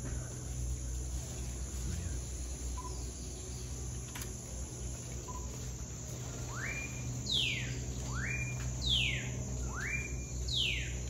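A bird calling three times in the second half, about a second and a half apart. Each call is a quick rising note that holds briefly, then a high note that sweeps down. A steady low hum runs underneath.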